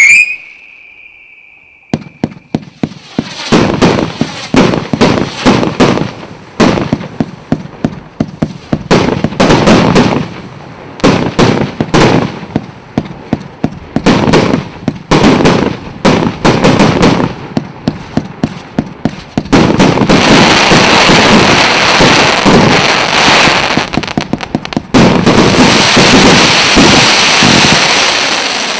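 A 120-shot, 1.2-inch fireworks cake firing: a whistling tone fades out at the start, then shots launch in rapid succession from about two seconds in. From about two-thirds of the way through, the bangs merge into a dense, continuous crackle, with a short lull near the end.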